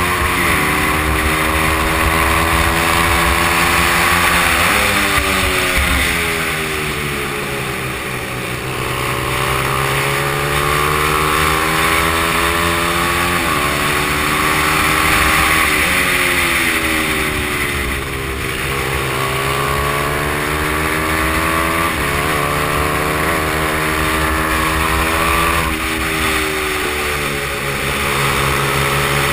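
Honda XR100's air-cooled single-cylinder four-stroke engine at race pace, its pitch climbing through the revs and dropping back again and again, as in gear changes and braking.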